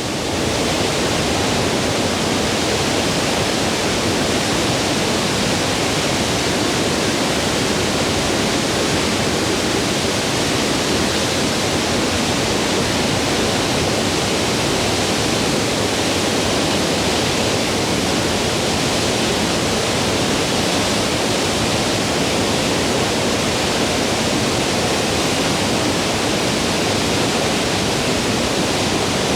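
A 46-metre waterfall in heavy spate after insane rainfall: a loud, steady rush of falling water.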